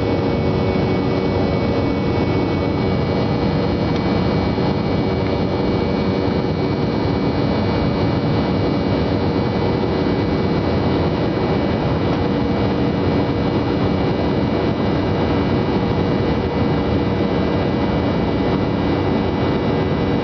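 Airplane engines running steadily in flight: a loud, even drone with a constant hum underneath that does not change.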